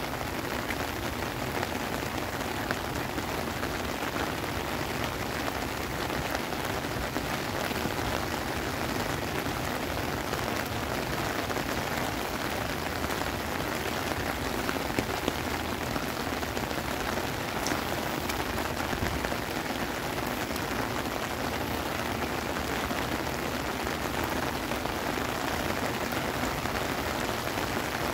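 Heavy rain falling steadily on wet pavement and grass.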